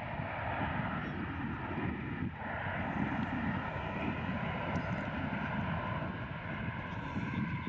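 Boeing 737-800's CFM56-7B jet engines running, a steady engine noise with a faint high whine and no break.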